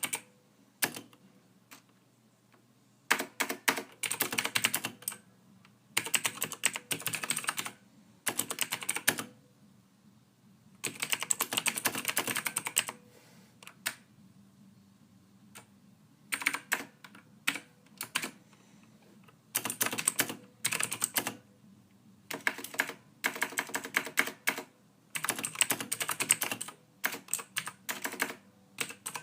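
Typing on a computer keyboard: quick runs of key clicks lasting a second or two each, broken by short pauses.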